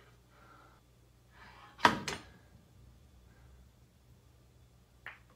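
Pool cue striking the cue ball with one sharp crack about two seconds in, followed straight away by a couple of lighter clicks of ball contact.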